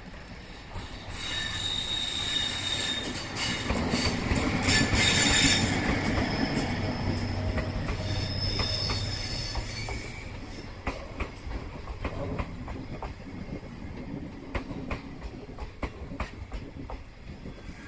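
Passenger train pulling into a terminal platform: its wheels squeal in thin high tones, loudest about five seconds in. The sound then eases into a slower, irregular series of clicks over the rail joints as the train slows to arrive.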